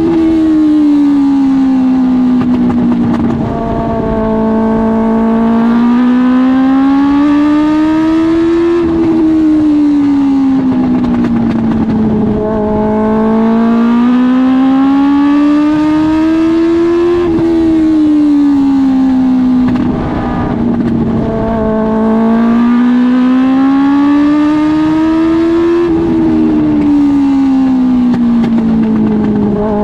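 Dwarf race car's Suzuki GSX-R1000 inline-four motorcycle engine lapping a short oval at race speed. Its pitch climbs for a few seconds, falls away and holds low briefly before climbing again, a cycle about every eight to nine seconds, three times over.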